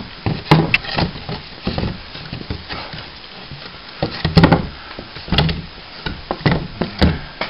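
A piece of plasterboard being worked up through a hole in a plaster ceiling, giving a series of irregular knocks and scrapes as it bumps against the ceiling and the timber above, with the loudest cluster a little over four seconds in.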